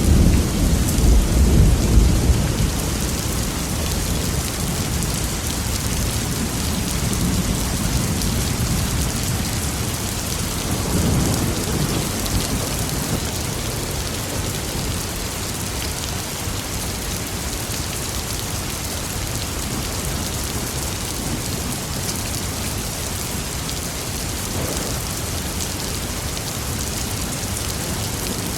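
Thunderstorm: steady rain hissing on surfaces, with a loud low roll of thunder in the first few seconds and a weaker rumble about eleven seconds in.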